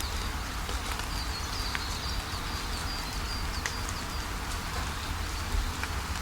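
Steady rain falling, with scattered single drops tapping close by. A bird sings a fast run of short, high, repeated chirps through roughly the first half.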